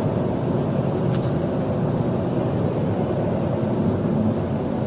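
Police cruiser driving fast in pursuit: a steady, loud rumble of engine and road noise.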